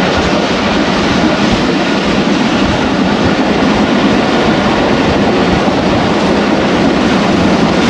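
Passenger train coach running at speed, heard from inside: a steady, loud rumble of wheels on rails.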